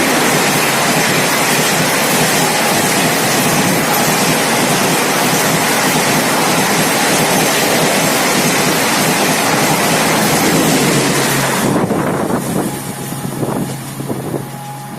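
Passenger express train rushing past at full speed: a loud, steady rush of wind and wheel noise that drops off suddenly about twelve seconds in as the end of the train goes by, leaving a fainter, uneven rumble.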